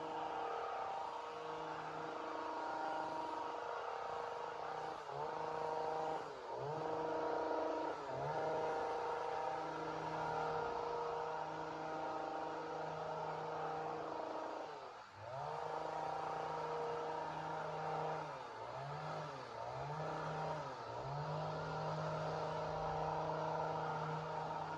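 Two-stroke chainsaw running at high revs, its engine pitch dropping sharply and recovering several times: about six and eight seconds in, around fifteen seconds, and three quick dips near the end.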